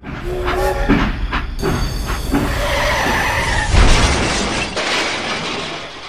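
Train sound effect: a train rumbling along the rails, rising to a loud crash about four seconds in, then dying away.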